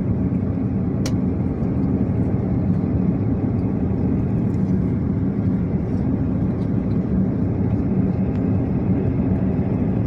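Steady low roar of an airliner's passenger cabin as the plane descends to land: engine and airflow noise heard from inside, with one faint click about a second in.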